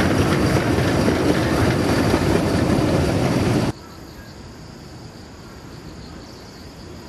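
Narrow-gauge Kurobe Gorge Railway trolley train running along the track, a loud rumble of its wheels on the rails that cuts off suddenly about three and a half seconds in, leaving a quiet outdoor background.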